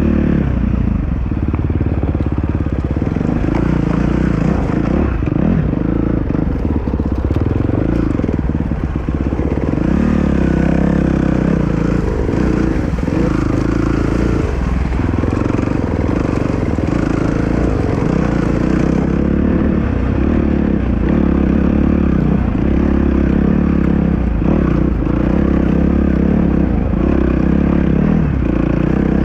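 Dirt bike engine running loud and continuously, its pitch dipping and rising again and again with the throttle.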